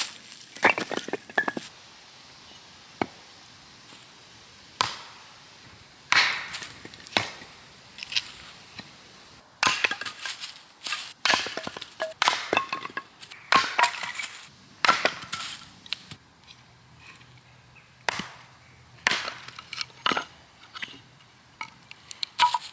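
Dead wood being snapped and broken up by hand: a long, irregular series of sharp cracks and snaps, about one a second with short pauses.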